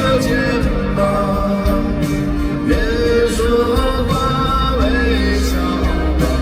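Live concert music: a band playing a pop ballad with a singing voice over it.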